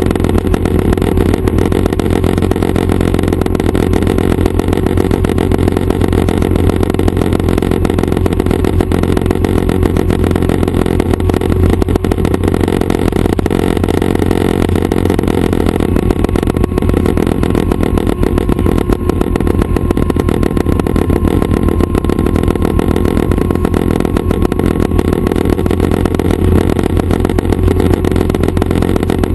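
Schweizer 269 light helicopter running steadily, its piston engine and rotor making a loud continuous drone with a fast, even pulsing and no change in pitch.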